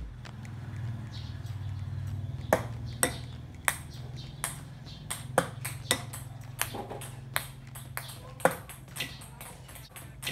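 Ping-pong balls tossed at rows of bowls on a table, bouncing off the rims and tabletop: a string of sharp, light clicks at uneven intervals, over a steady low hum.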